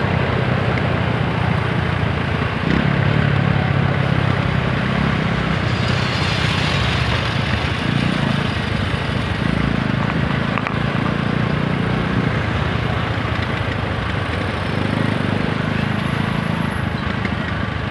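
TVS Apache RTR 160 4V single-cylinder motorcycle engine running on the move, its note swelling and easing several times as the throttle opens and closes, over a steady rush of wind and road noise.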